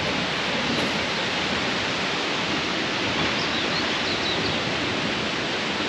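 Steady, even rush of flowing water, like a creek or cascade in the rainforest, with no change in level.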